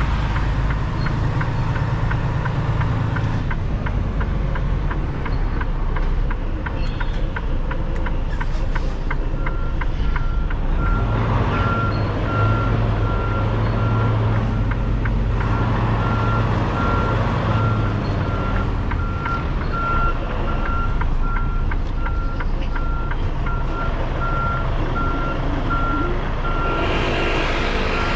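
A semi truck's diesel engine running at low speed under the cab, with fast, even clicking over the first third. A reversing alarm then beeps steadily at an even pace until near the end.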